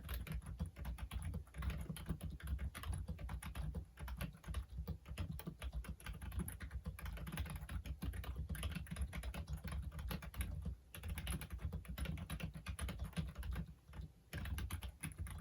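Steady fast typing on a Logitech Wave Keys wireless ergonomic keyboard, a rapid patter of key clicks with brief pauses about four, eleven and fourteen seconds in.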